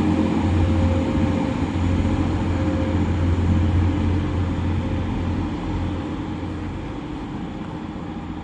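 Class 185 diesel multiple unit pulling away from the platform, its diesel engines running with a steady low drone that fades over the last few seconds as the train moves off.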